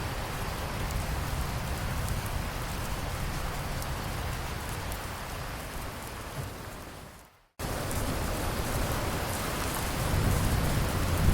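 Steady rain falling. About two-thirds of the way in it fades away to a moment of silence, then starts again abruptly, and near the end a low thunder rumble swells under the rain.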